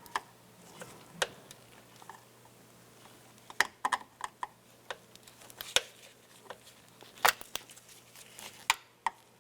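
Plastic retainer clips being pried out with a trim tool: about eight sharp clicks and snaps at irregular intervals, with faint handling of plastic parts in between.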